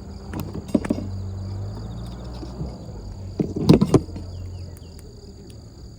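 Crickets singing steadily beside a campfire, broken twice by clusters of sharp crackles and knocks, about half a second in and again, louder, around three and a half seconds in.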